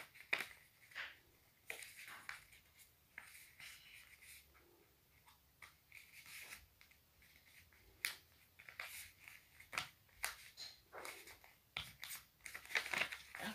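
A sheet of paper being folded and creased by hand: scattered soft rustles and sharp little crackles of the paper.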